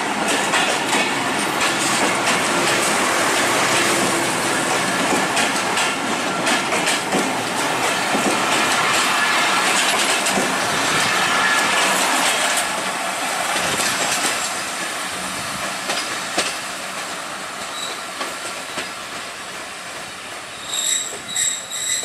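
Passenger coaches of a broad-gauge Bangladesh Railway intercity train rolling by, wheels clattering over the rail joints. The noise eases off in the second half as the train slows into the station, and a high-pitched wheel squeal starts near the end.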